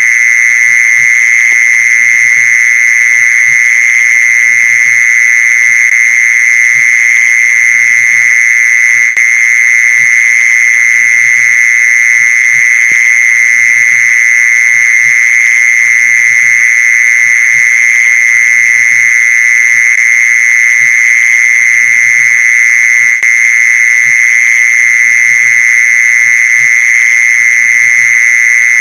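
Mole cricket call: one continuous, unbroken high trill held at a steady pitch and loudness, the kind of call played to lure mole crickets.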